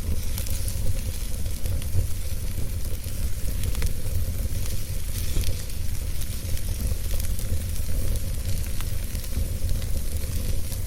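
Wood fire burning with a steady low rumble and a continuous sizzle, dotted with frequent small crackles and pops.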